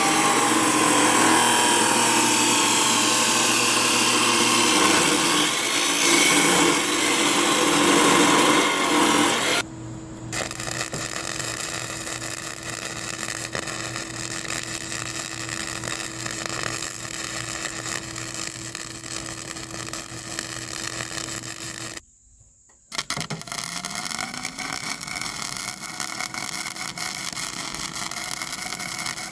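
Electric power tool at work: about ten seconds of loud, harsh cutting or grinding, then a steadier motor whine. The sound drops out for about a second near the end, and the motor spins back up and runs steady.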